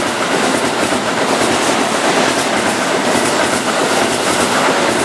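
Keihan 3000 series electric commuter train running past and pulling away: a steady rolling noise of wheels on rail.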